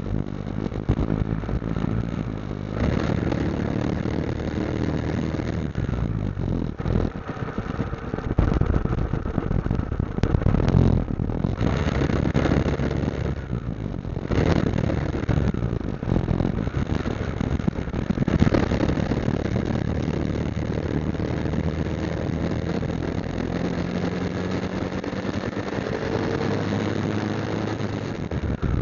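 Motorcycle engine running on the road, its pitch rising and falling as the revs change, over a steady rushing noise.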